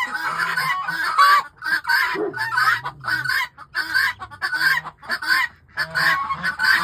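A flock of guinea fowl calling all at once: a dense, overlapping chorus of short, harsh, repeated calls with a few brief lulls.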